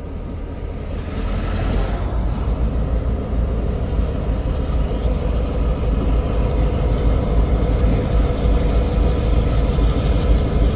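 Steady low vehicle rumble that grows louder about a second and a half in, then holds steady.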